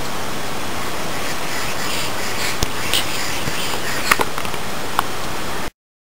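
Steady rushing hiss with a few short sharp clicks around the middle and near the end; it cuts off suddenly into silence.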